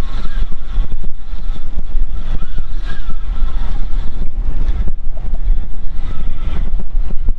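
Strong wind buffeting the microphone in uneven gusts aboard a fishing boat, with boat and water noise beneath.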